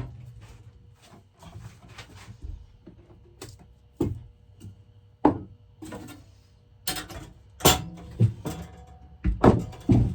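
Saw cutting off the excess wood of a freshly hung axe handle. It works in short, irregular strokes, with sharp knocks bunched in the second half.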